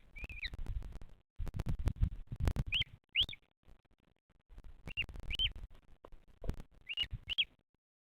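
A bird chirping: short, sharply curved high notes in pairs about half a second apart, repeated roughly every two seconds. Bursts of low rumbling noise and a few clicks run underneath.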